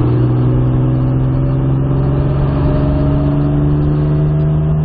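Modified Jaguar E-type's engine, fitted with high-lift cams, pulling under steady throttle, its pitch rising slowly and evenly as the revs climb.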